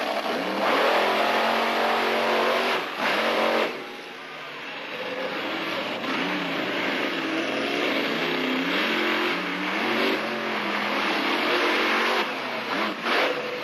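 Monster truck engine revving hard, its pitch rising and falling again and again as the throttle is worked, with a short let-off about four seconds in.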